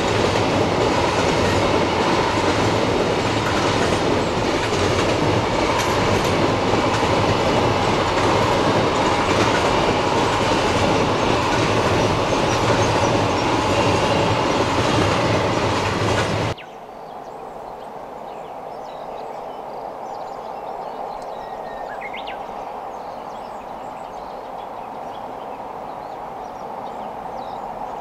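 Loaded container wagons of a freight train rolling past close by with a steady clickety-clack of wheels over rail joints and a little wheel squeal. About sixteen seconds in it cuts abruptly to a much fainter, steady rumble of the same train crossing a distant viaduct, with a short chirp partway through.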